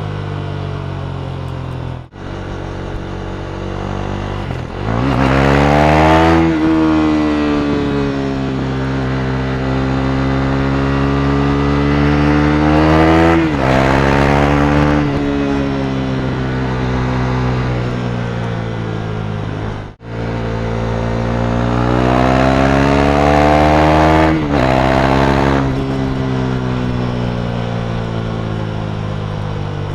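2017 KTM Duke 390's 373 cc single-cylinder engine running through an Akrapovic exhaust under way: it revs up three times, about 5, 13 and 22 seconds in, pitch climbing and then dropping back, with steadier running between.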